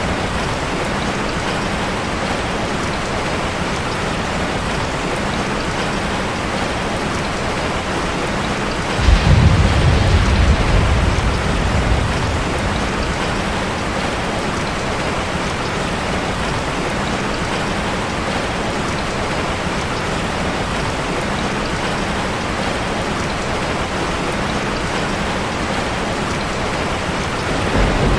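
Steady rain drumming on a metal roof, with a low rumble swelling up about nine seconds in and fading over some three seconds, and a smaller one near the end.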